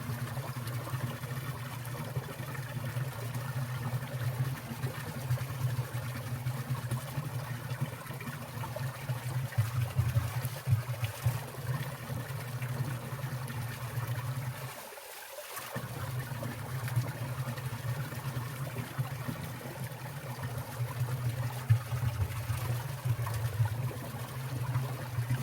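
Winter valley stream water trickling and falling over rocks and icicles, a steady rushing with a low rumble that drops out briefly about fifteen seconds in.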